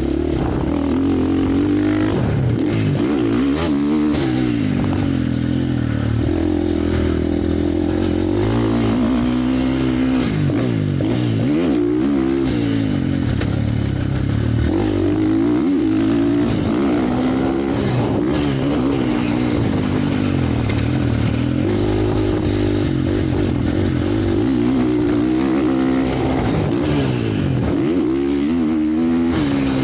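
Motocross motorcycle engines revving up and down as they ride, the pitch rising and falling again and again every few seconds.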